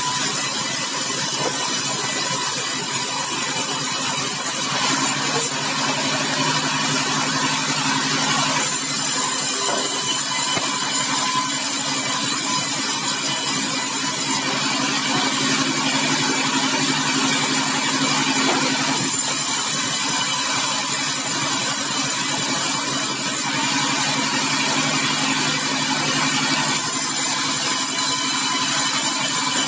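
Sawmill machinery running steadily while a large bengkirai hardwood log is sawn. A deeper, engine-like hum swells three times, for a few seconds each, about every nine seconds.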